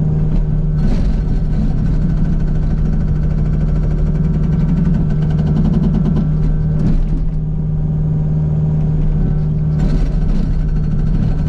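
Kubota U55 mini excavator's diesel engine running steadily under load while the Agrotk 680 hydraulic hammer pounds solid sand rock in a rapid, even chatter of blows. The hammer surges louder briefly a few times.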